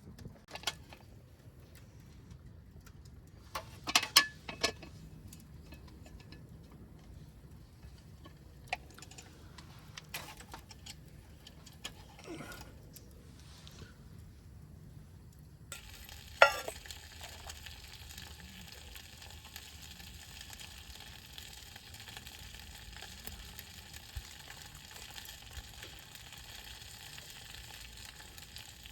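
A few sharp knocks of cookware being handled, then, about halfway through, food starts sizzling in a hot pan over the wood fire with a loud clack. The steady sizzle runs on from there.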